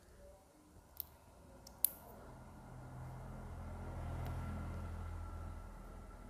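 Two small sharp clicks of a hand tool on the motorcycle's cam chain tensioner, followed by a faint low hum that swells and fades over a few seconds.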